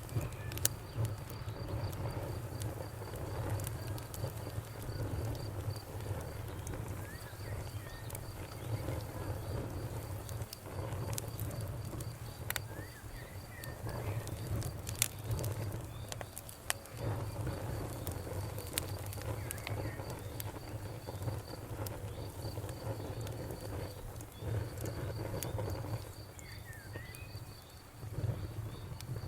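Campfire burning: a low steady rumble of flames with scattered sharp pops and crackles. Crickets chirp in an even, steady pulse behind it.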